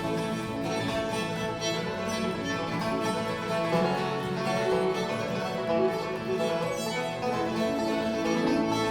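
Bluegrass band playing an instrumental passage, fiddle over strummed and picked acoustic guitar, without singing.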